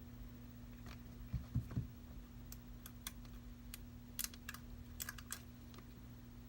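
Scattered light clicks and taps of small tools and parts being handled at a repair bench, with a few dull knocks about a second and a half in, over a steady low electrical hum.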